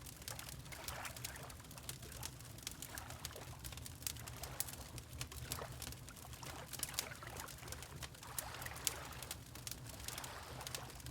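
Mixed ambience of a crackling wood fire and gentle water lapping: frequent small sharp crackles over a low steady hum, with soft swells of water every second or two.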